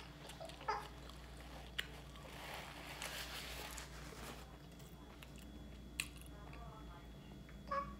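Close-up mouth sounds of a person chewing food, with a few short sharp clicks.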